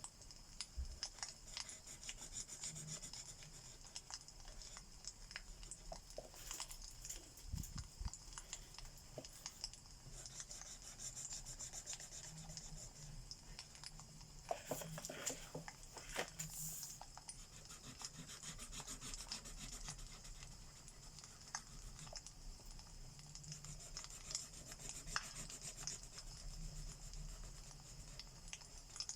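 Alcohol marker tip rubbing back and forth across paper while colouring, over the steady crackle and small pops of a fireplace sound track.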